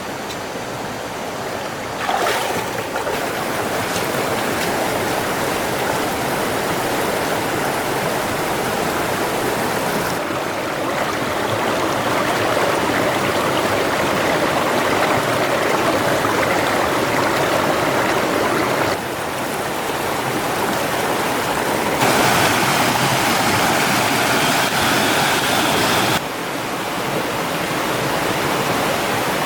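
Running water: a steady rushing, like a stream, that jumps abruptly in level and tone several times.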